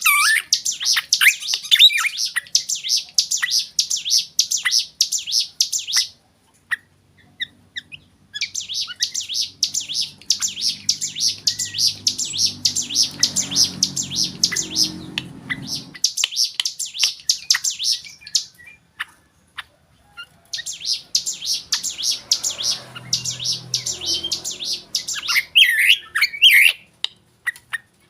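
Black drongo singing its varied song: fast runs of high, repeated chattering notes, each run lasting a few seconds, with short pauses between them and a few lower sweeping notes near the end.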